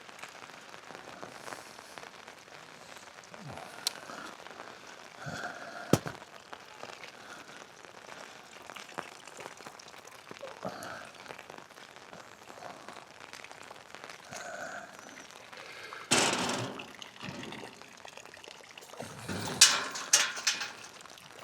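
Steady rain pattering, with scattered drips and small knocks. About sixteen seconds in there is a louder rush of about a second, and near the end a few sharp knocks.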